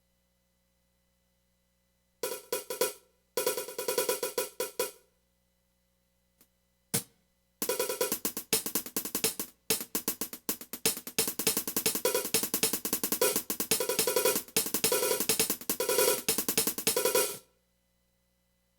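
Drum kit played in short starts and stops: quick hi-hat and cymbal strokes with drum hits, two brief runs and a single hit, then a longer run of about ten seconds that stops sharply.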